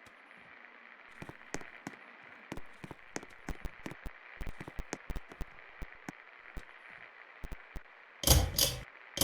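Hunter Savoy Deluxe ceiling fan running with a steady soft whir, its pull chain rattling in light irregular clicks. Near the end come two loud double clacks, typical of the pull-chain speed switch being pulled.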